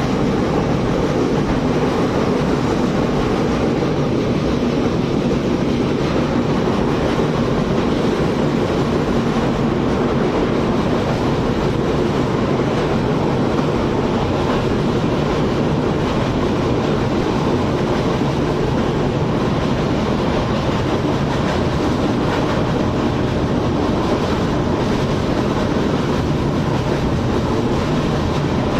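Magadh Superfast Express passenger train running at high speed, about 130 km/h, a loud steady rumble of wheels on rails that holds even throughout.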